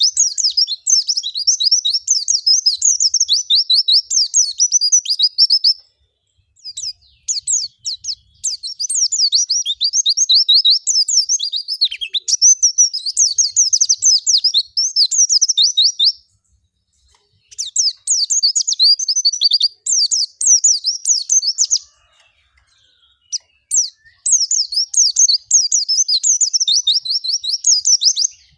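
White-eye (pleci) singing a long, fast, high twittering song in bouts of several seconds with three short pauses between. The song is the busy, nonstop 'ngalas gacor' type used as a bait recording to get a captive white-eye to start singing.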